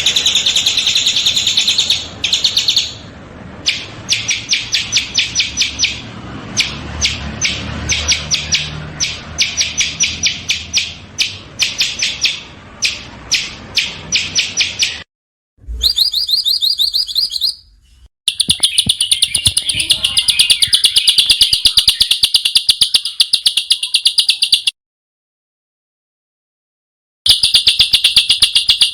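Small songbirds singing very fast trains of sharp, rough repeated notes, the harsh 'shot' phrases used as tutor song for cage birds. The recording is spliced: the song stops and restarts abruptly several times, with a silence of over two seconds near the end.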